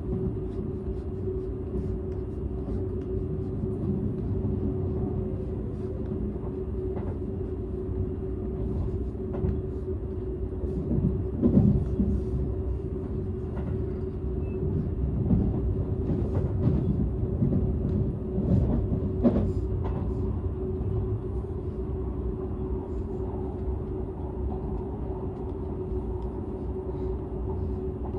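Running noise inside a Seibu 001 series Laview limited express train car: a steady low rumble of the train under way with a constant hum. Occasional short knocks come through, most of them around the middle.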